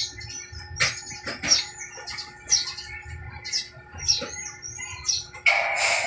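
Small birds chirping over and over in short, high calls, with a couple of sharp clicks of a fitting being handled. Near the end a louder, fuller sound comes in.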